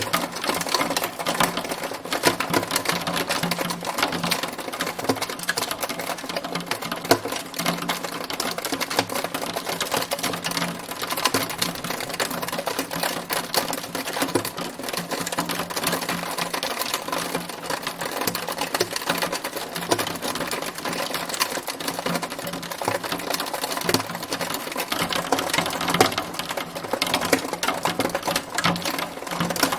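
Hailstones striking a hard surface in a dense, steady clatter of rapid small ticks.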